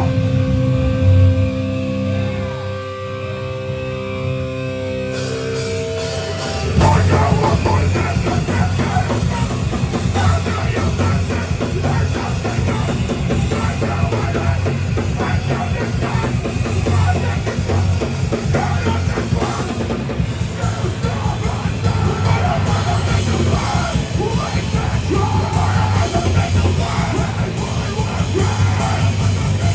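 Live heavy metal band. For about the first six seconds distorted guitars hold sustained notes, then the full band crashes in with fast, dense drumming, distorted guitars and yelled vocals.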